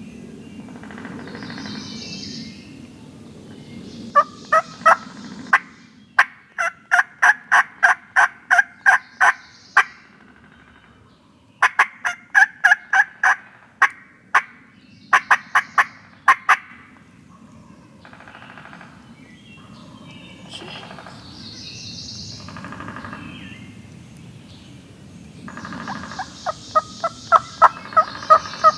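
Wild turkeys calling: several runs of loud, evenly spaced yelps, about two to three notes a second, with fainter gobbles farther off in between.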